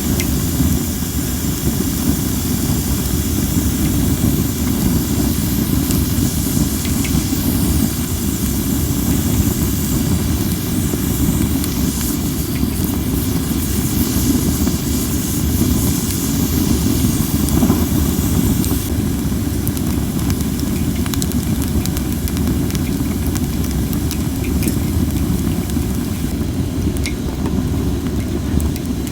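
Cherry-wood campfire burning in strong wind: a steady low rumble of wind on the microphone, under a hiss of steam from the not-quite-dry logs and scattered small crackles.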